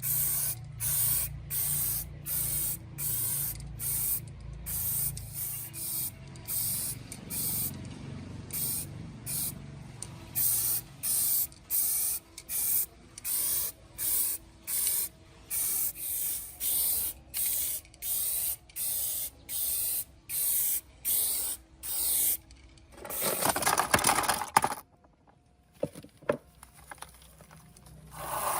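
Spraying in short, evenly repeated hissing bursts, about one and a half a second. Near the end comes a longer, louder rush of noise, then a near-silent pause broken by a single click.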